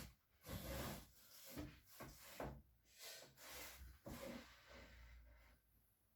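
Faint, irregular rubbing and scraping: about ten short strokes, dying away near the end.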